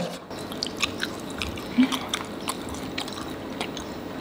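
Close-miked biting and chewing of dry, very hard dendeng (Minang dried beef). A sharp crunch comes at the first bite, followed by irregular crisp crackles as it is chewed.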